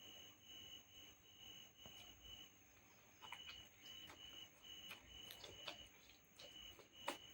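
Faint cricket chirping, a high trill pulsing about twice a second with a short pause midway, under scattered soft clicks from about halfway in, the sharpest near the end.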